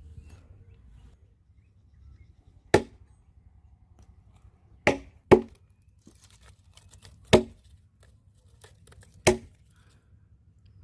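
A knife chopping: five sharp strokes at uneven intervals, two of them close together in the middle.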